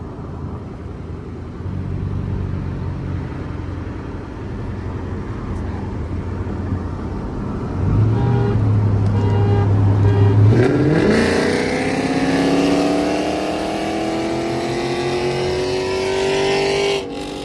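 Chrysler 300's engine during a full-throttle acceleration pull. After a steady drone, the engine note climbs smoothly in pitch for about six seconds, then drops away suddenly near the end.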